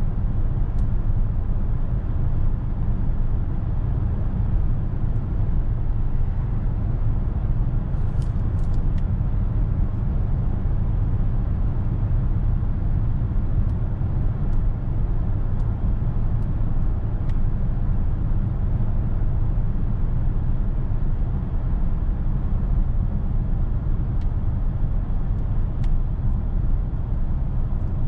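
Steady low road and tyre rumble inside the cabin of a DS 9 E-TENSE 225 on the move, with a few faint light clicks.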